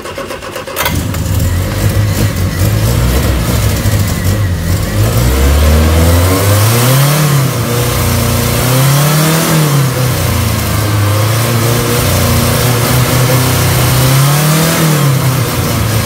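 1979 Triumph Spitfire's four-cylinder engine catching about a second in and running, on its first start after years of sitting. The revs are raised by hand three times, the note rising and falling each time.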